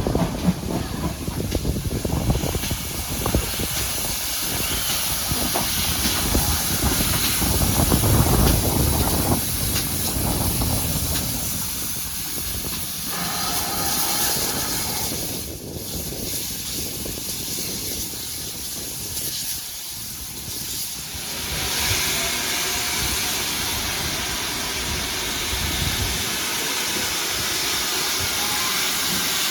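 Steam locomotive hissing steam steadily, over a low rumble that is heavier in the first half.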